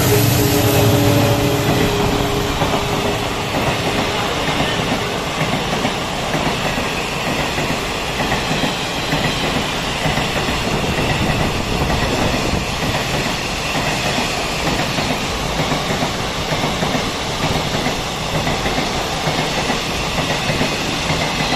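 Express train passing at high speed: a low rumble and a few steady tones fade out in the first seconds as the locomotive goes by, then the coaches rush past with continuous wheel and track noise and rapid clickety-clack over the rail joints.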